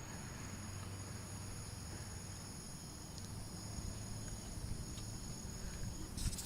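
Crickets trilling steadily in a continuous high-pitched chorus over a low hum, with a few faint clicks near the end.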